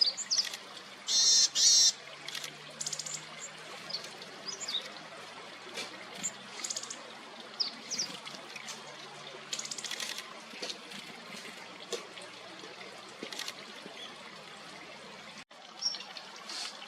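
Meadow bunting calling and singing: short high chirps and brief song phrases scattered throughout, loudest a pair of bursts about a second in, over a steady trickle of running water.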